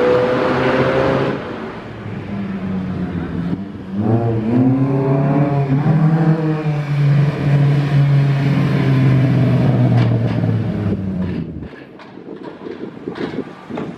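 Car engine running loudly. It fades about a second in, rises in pitch around four seconds in as it revs, then holds a steady drone and drops away near the end.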